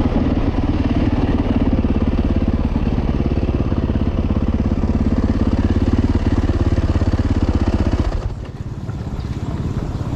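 Yamaha YZ450F single-cylinder four-stroke dirt bike engine running steadily on the throttle, then backed off about eight seconds in, dropping to a quieter, lower note.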